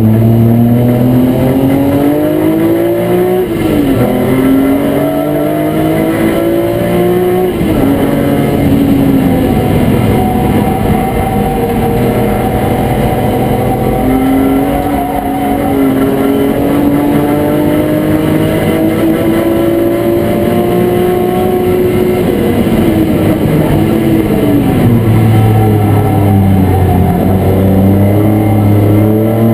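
BMW E36 M3 race car's straight-six engine heard from inside the stripped cabin under hard acceleration: revs climb and drop sharply at two quick upshifts, then pull slowly higher for a long stretch. Near the end the revs fall through downshifts and the engine picks up again.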